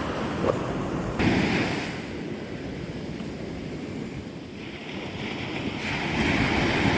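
Surf washing onto the beach, with wind buffeting the microphone. The wash swells about a second in and again near the end.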